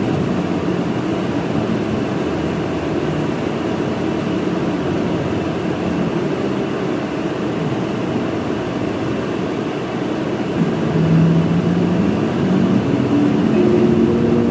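Route bus engine and road noise heard from inside the cabin as the bus drives. About ten seconds in, the engine note rises and climbs again as the bus accelerates.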